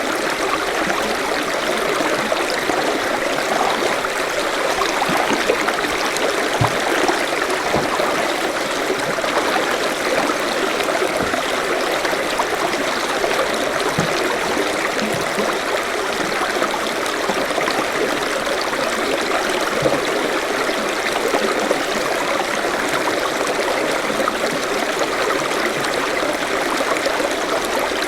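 Forest stream flowing steadily over rocks, a continuous rush of water with small gurgles and bubbles.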